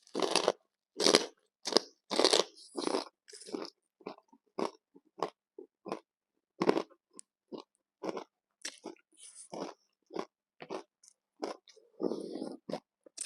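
A person chewing crunchy food close to the microphone, in steady crunches about twice a second.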